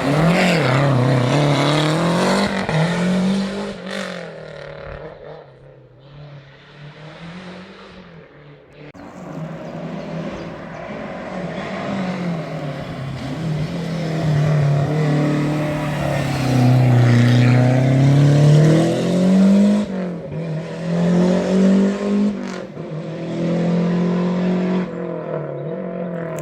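Lancia Delta Integrale's turbocharged four-cylinder engine revving up and down through the gears. It fades away around six to eight seconds in, then builds again to its loudest at about eighteen seconds, with a few short, sharp throttle blips after that.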